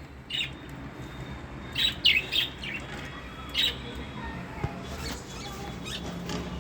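Small pet birds chirping: a handful of short, sharp chirps, one about half a second in, a quick cluster a couple of seconds in, and another past three seconds.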